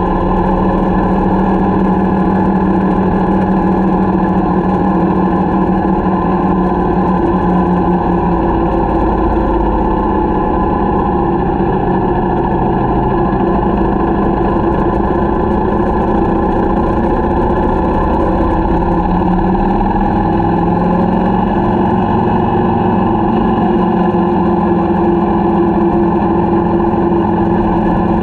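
Adventure motorcycle engine running steadily under way, with heavy rumbling noise; the engine note dips and then rises again about two-thirds of the way through.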